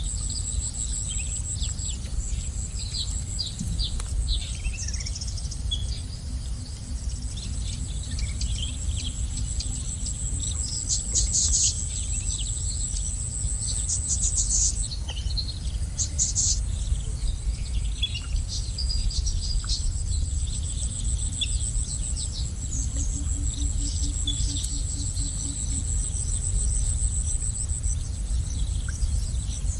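Small birds chirping and twittering in short scattered calls over a steady, high, pulsing insect trill, with a low rumble underneath.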